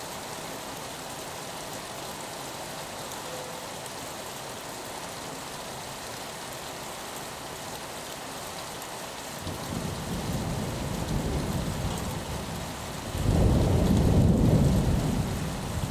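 Steady rain on a window, an even hiss. About ten seconds in, a deep thunder rumble builds, and it grows louder in the last few seconds.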